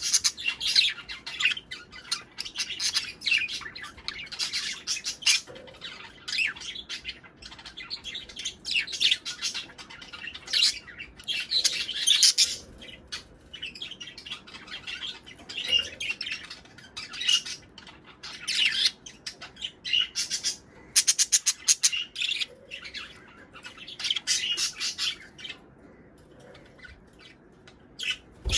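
Budgerigars chirping and chattering in rapid, dense bursts, with short pauses between them. It is the mating chatter played to budgie pairs to bring them into breeding.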